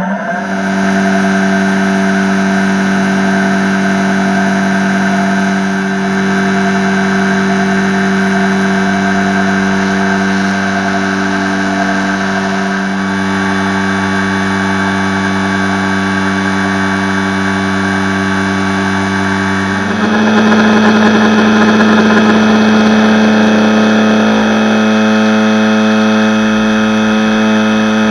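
Robot arm's milling spindle running at a steady high whine while cutting marble, with a grinding hiss over it. About two-thirds of the way through, the pitch steps up slightly and the sound gets a little louder, as the spindle speed or the cut changes.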